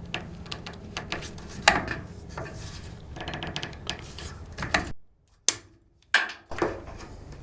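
Hand work on plumbing hardware: a run of small clicks, rattles and knocks, with one sharp knock about two seconds in. About five seconds in the sound drops out to near silence for a second or so, then the clicking returns.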